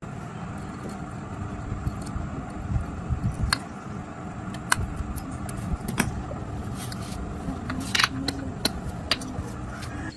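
Sharp metallic clinks and clatter, as of tools and metal engine parts being handled, several separate strikes over a steady low rumble.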